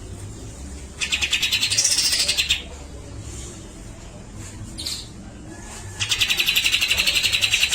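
Cucak jenggot (brown-cheeked bulbul) singing in loud rapid chattering rattles, the 'besetan': one burst of about a second and a half, starting about a second in, and another starting near the end, with a short single call between them.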